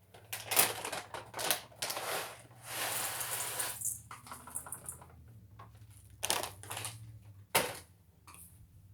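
Ingredients and utensils being handled while mixing cookie dough: several sharp clicks and knocks, with a rustling, rattling stretch of about a second and a half near the middle.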